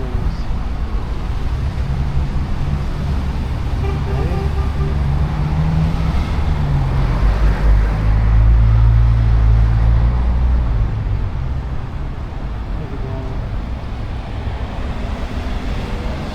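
City traffic noise, with a heavy engine passing close that swells to its loudest about halfway through and then fades. Passers-by talk faintly.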